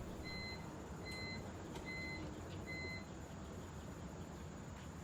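Electronic beeper sounding a short, high beep about every three-quarters of a second. Five beeps, then it stops about three seconds in, leaving a faint steady hiss.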